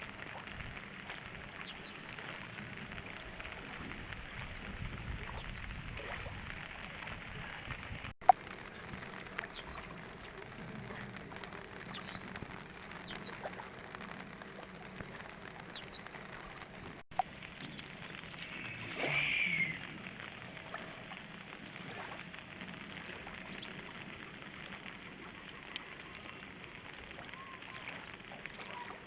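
Steady rushing noise of the swollen Narmada river, with scattered faint bird chirps. A sharp click sounds twice, about a third and about two-thirds of the way in, and a louder call rises and falls briefly soon after the second click.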